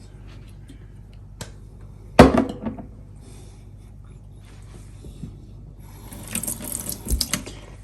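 Kitchen utensils and containers handled while measuring marinade ingredients: a sharp knock about two seconds in, then light clinking and clattering near the end.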